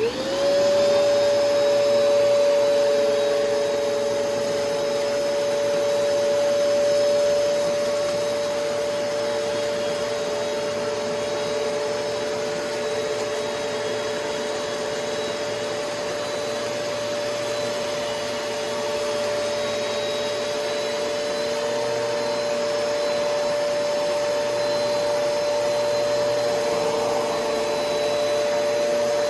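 Kenmore Progressive canister vacuum with its power nozzle switched on: the motor spins up in a rising whine within about half a second, then runs steadily on high speed with a constant whine over a rush of airflow.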